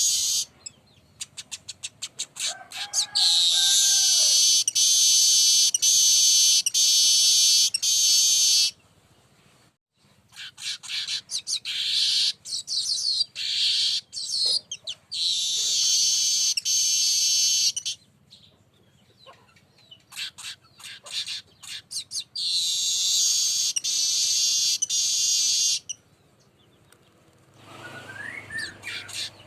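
Weaver bird (burung manyar) song: runs of rapid ticks building into long, high, buzzing trills, three bouts of a few seconds each separated by short pauses. A lower pitched call briefly overlaps the first trill.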